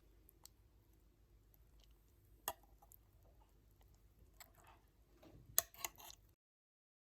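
A few faint clicks and taps of handling in a quiet room: one sharper click about two and a half seconds in and a small cluster near the end, after which the sound cuts out to dead silence.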